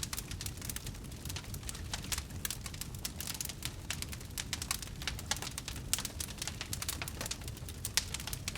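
Wood fire burning, with dense irregular crackles and pops over a steady low rumble of flames.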